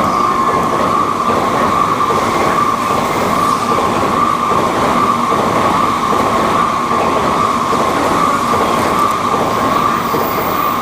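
Tokaido Shinkansen N700-series bullet train running past at speed on a viaduct: a loud, steady rushing noise with a constant high-pitched whine held throughout.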